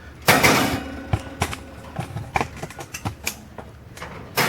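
Handling noise: a loud rustling scrape about a quarter second in and another near the end, with light clicks and knocks in between.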